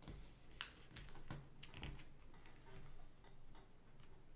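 A letter-size sheet of paper being folded over and creased by hand: faint crinkling with a scatter of small clicks and scrapes.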